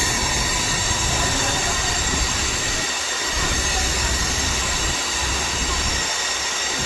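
Train running on rails: a steady rumble and rail noise with a continuous high-pitched whine over it.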